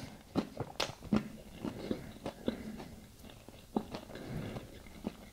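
A person chewing a mouthful of shrimp taco close to the microphone: irregular mouth clicks and smacks.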